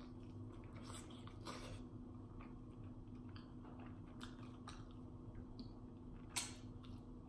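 Close-up mouth sounds of someone chewing a chicken wing: soft wet smacks and crunches, with a sharper one about six seconds in, over a steady low hum.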